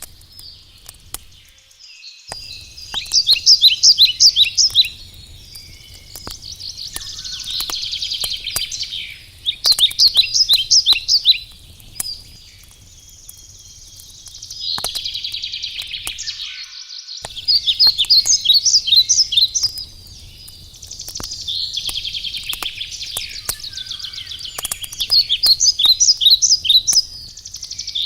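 Songbirds singing short trilled phrases every few seconds over the sharp crackle and pops of a burning wood campfire.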